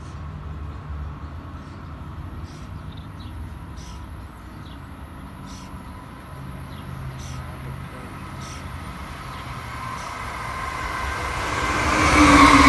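Amtrak passenger train approaching on the rails: a low rumble that grows steadily louder over the last few seconds. It becomes a loud rush of wheels on rails, with a high squeal, as the cars come close.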